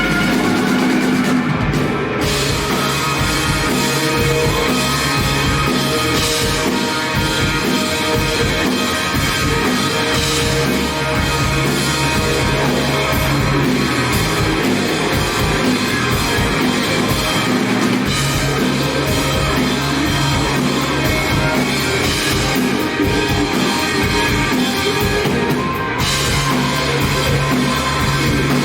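Live rock band music: electric guitars, bass and a drum kit playing steadily and loudly, with no break.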